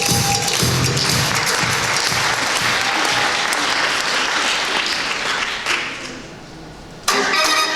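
Audience applauding after a dance number ends, the applause fading away; near the end new music starts abruptly.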